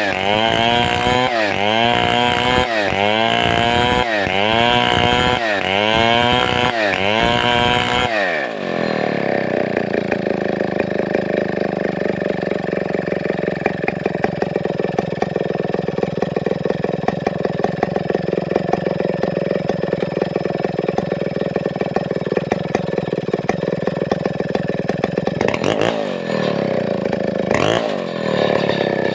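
A large two-stroke chainsaw of the Stihl 070 / New West 707 type, revving up and down about once a second for the first eight seconds. It then drops to a steady idle, with two short revs near the end.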